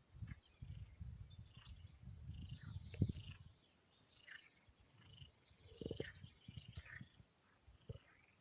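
Small birds chirping faintly here and there over a low, uneven rumble, with one sharp click about three seconds in.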